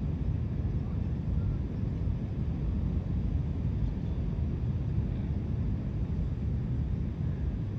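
Steady low rumble of outdoor background noise, even throughout, with no calls or distinct events standing out.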